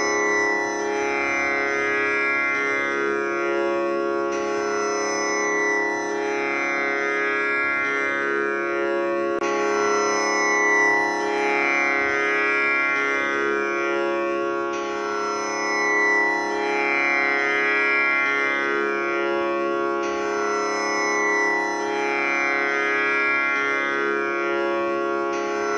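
Tanpura drone tuned to C#, its strings plucked one after another in an unbroken cycle that repeats about every five seconds, with a rich, shimmering ring of overtones.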